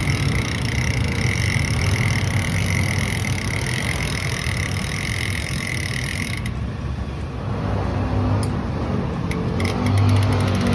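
Bicycle drivetrain ticking and clicking as the crank and chain are turned by hand, over steady background hiss; the clicks come thicker near the end.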